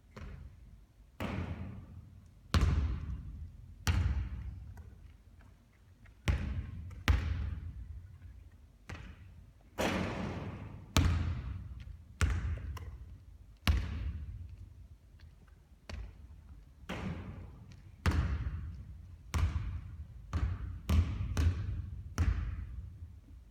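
A basketball bouncing hard on a court again and again during three-point shooting practice. Each thud comes about every second or so, irregularly, and rings on with a long echo.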